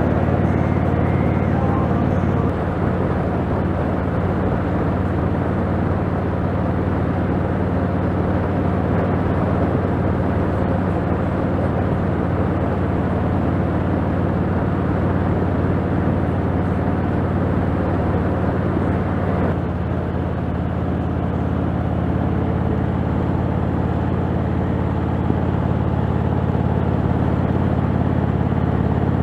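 Motorcycle engine running steadily at cruising speed, with wind and road noise rushing over it. The engine note shifts slightly about two and a half seconds in and again about twenty seconds in.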